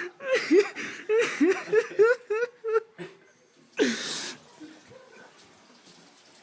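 Person laughing hard in a quick run of pitched, breathy bursts for about three seconds, then one loud outburst about four seconds in, after which the laughter dies away.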